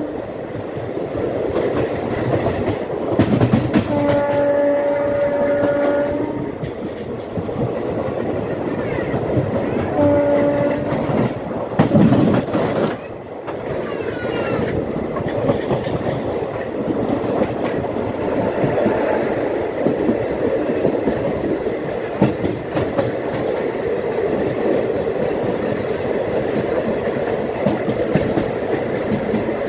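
Indian express train running at speed, heard from the coach doorway: a steady rumble and clatter of wheels over the rails. The horn sounds a held blast of about two seconds some four seconds in, and a short blast at about ten seconds. A heavier surge of rumble comes around twelve seconds.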